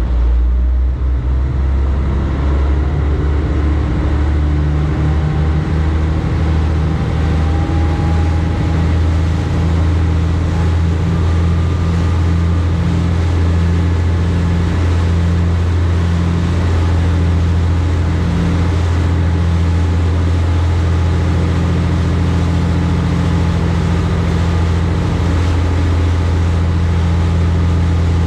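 High-speed passenger boat's engine running steadily with a strong low hum, heard from on board over a wash of water noise.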